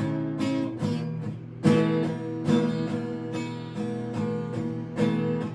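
Acoustic guitar strummed in a slow, steady pattern, with a stroke roughly every 0.8 seconds and each chord ringing on into the next. This is an instrumental gap between sung lines of a song.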